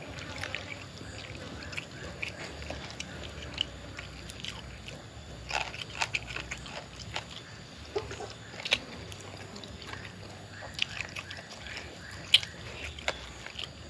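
A person chewing and biting grilled meat: wet mouth clicks and smacks at irregular intervals, one sharper click about twelve seconds in.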